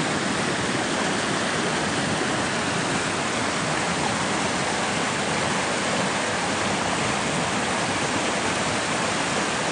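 A fast, swollen river rushing, a steady roar of water.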